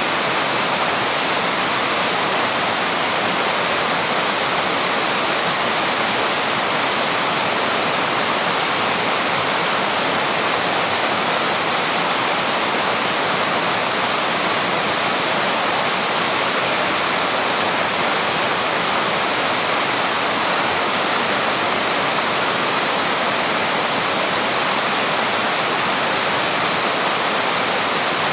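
Small waterfall rushing steadily: an even, unbroken hiss of falling and tumbling water.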